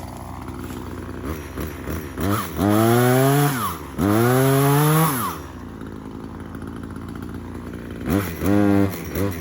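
Echo CS-3510 two-stroke chainsaw idling, then opened up to full speed twice for a second or more each, dropping back to idle between, with a shorter burst and quick blips of the throttle near the end.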